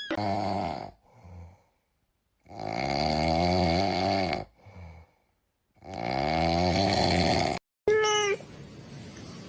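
A cat snoring: three long, rasping snores a couple of seconds each, with short softer breaths between them, then a short rising meow near the end.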